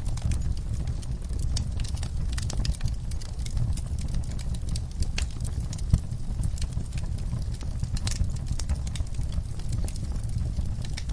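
Wood fire burning in a fireplace: a steady low rumble of the flames with frequent sharp crackles and pops, one louder pop about six seconds in.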